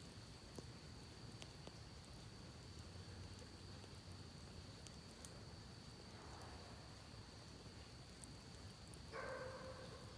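Faint campfire crackle, a few scattered small pops, over the steady low rush of a creek and a thin steady high whine. Near the end a brief pitched animal call of about a second.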